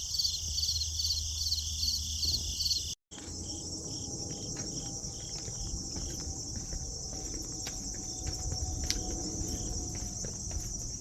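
Insects chirping in a high-pitched chorus, pulsing at about three chirps a second. The sound drops out briefly about three seconds in, then returns as a denser, continuous high trill with scattered faint clicks and a low rumble underneath.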